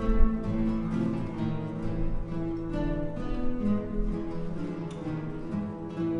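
Acoustic guitar ensemble playing a tango, with many plucked and strummed notes over a bass line and a strong accent just after the start.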